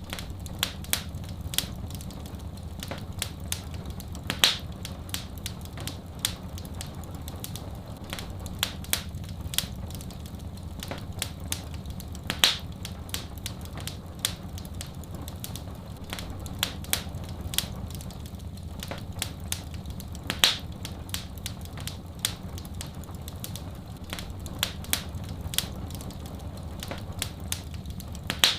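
Wood fire in a fireplace crackling and popping, many irregular small snaps with a few louder pops, over a steady low rumble.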